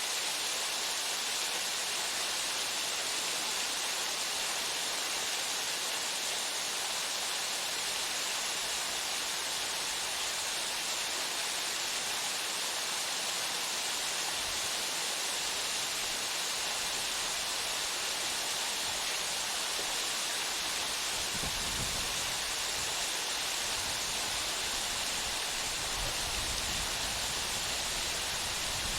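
Fudo Falls' Odaki waterfall, a steady, even rush of falling water with no change in level.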